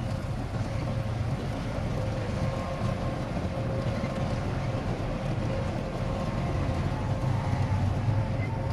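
Diesel engine of heavy earthmoving machinery running steadily, a low rumble with a faint steady whine above it, growing a little louder near the end.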